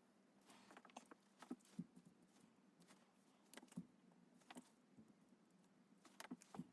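Faint, irregular scratches and taps of a drawing tool making quick strokes on a drawing surface, with a cluster of sharper ticks near the end.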